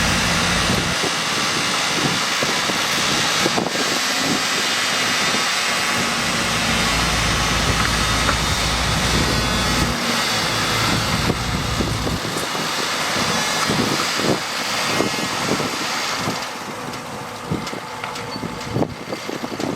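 Bulldozer's diesel engine running under load with its tracks clanking as it pushes soil; the engine noise eases somewhat near the end.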